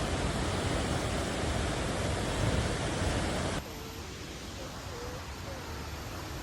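Steady rush of a waterfall, which cuts off abruptly a little past halfway to a quieter running-water hiss with a few faint short tones.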